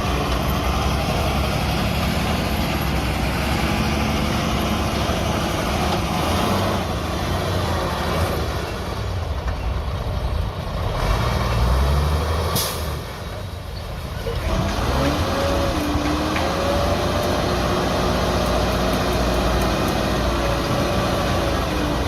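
Diesel engines of earthmoving machinery, a dump truck and bulldozer, running steadily. About halfway through comes a short sharp hiss, then an engine revs up and holds at the higher speed.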